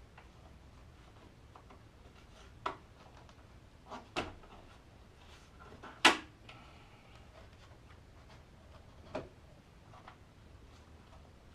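Scattered clicks and knocks of plastic parts as headlight bulbs are refitted and locked into their housings. There are four clear knocks, the loudest about six seconds in.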